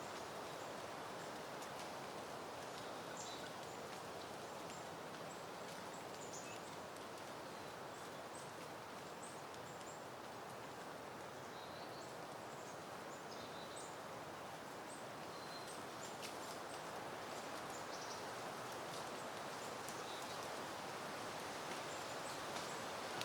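Steady wind rustling through peony plants, with faint short high bird chirps now and then.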